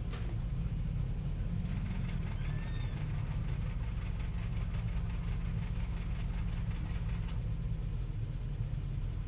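Rally car engine idling steadily with a low rumble.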